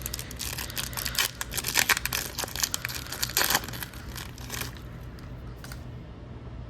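Wrapper of an Upper Deck hockey card pack being torn open and crinkled, a dense crackle that settles down after about four and a half seconds.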